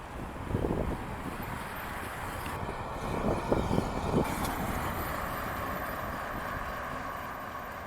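Wind buffeting the microphone during a BMX bike ride, gusting near the start and again about halfway through, over a steady rushing noise.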